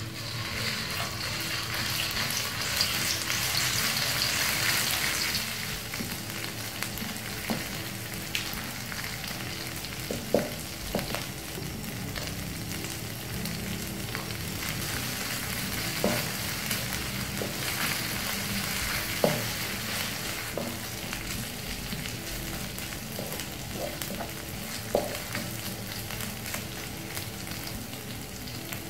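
Ground spice paste sizzling in hot oil in a non-stick wok, loudest in the first few seconds, then a lower steady sizzle as small dried anchovies are stirred in. A wooden spatula scrapes the pan and knocks against it sharply a few times.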